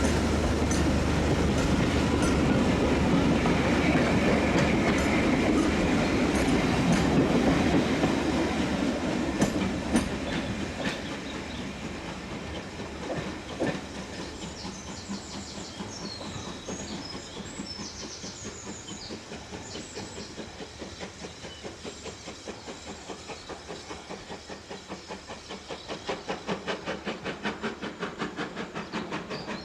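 Ivatt Class 2 2-6-2T steam tank locomotive and its train running past: loud for the first several seconds, then fading away as it recedes, leaving an even rhythmic beat.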